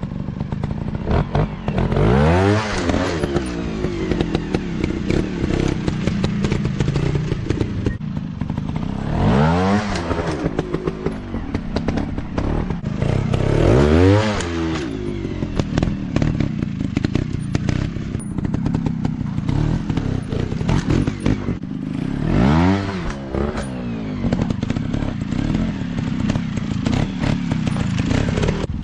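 Dirt bike engine running hard, its pitch rising and falling about four times as it is revved through, with rattling and clattering throughout.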